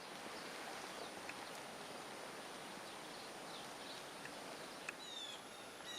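Steady outdoor wind noise from the blizzard, with a few faint high chirps. A run of falling high chirps comes about five seconds in.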